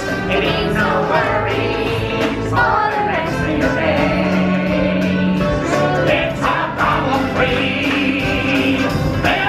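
Show music with a choir singing over a steady accompaniment.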